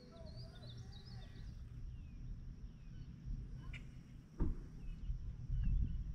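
Birds chirping in short scattered calls over a steady low rumble of outdoor noise, with a single sharp knock about four and a half seconds in.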